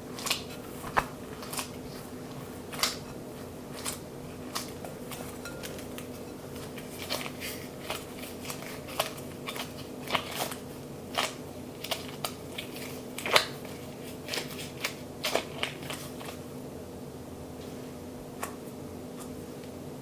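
Irregular light taps, clicks and handling sounds of hands and utensils at kitchen work, over a steady low electrical hum.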